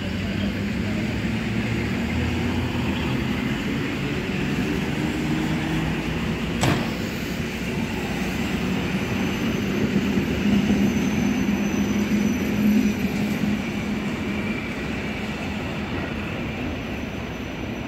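Two coupled EN57 electric multiple units pulling away, their traction motors and gearing giving a low hum that swells and shifts in pitch, over the rumble of the wheels on the rails. One sharp knock is heard about seven seconds in.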